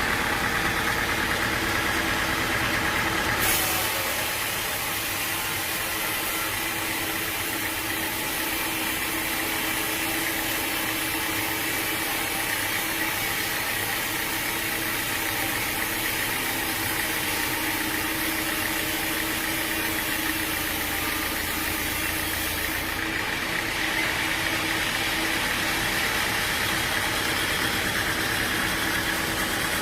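An engine running steadily. A high hiss comes in abruptly a few seconds in and stops again about three quarters of the way through.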